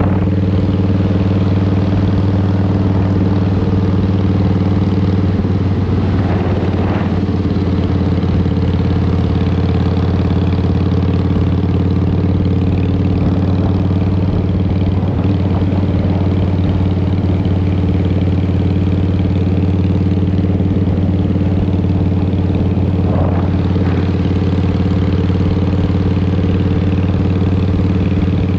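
Harley-Davidson Twin Cam 88 V-twin with Vance & Hines exhaust running steadily at an even engine speed, with two short rushes of higher noise over it, one about a quarter of the way in and one near the end.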